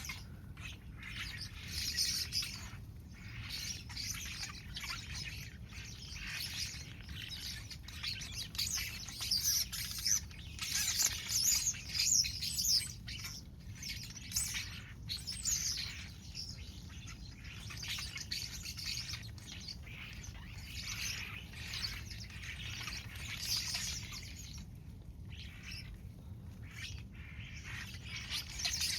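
A flock of birds chirping and calling constantly, many short overlapping calls at once, busiest about a third of the way through.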